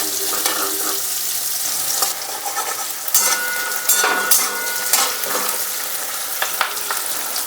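Sliced onions sizzling as they fry in hot oil in a kadai, with a spatula stirring and scraping against the pan; a run of sharp clicks of the spatula on the metal comes between about three and five seconds in.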